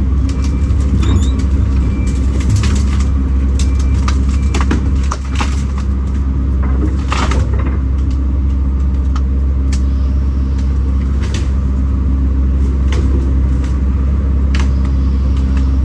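Kobelco SK210 excavator's diesel engine running steadily under load, with irregular sharp cracks and knocks as the machine breaks and moves brush and logs.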